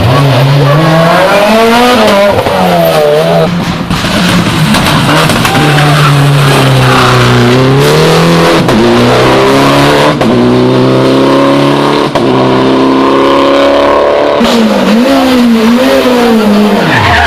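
Rally car engine revving hard on a closed special stage, the pitch climbing and dropping again and again with gear changes and lifts off the throttle.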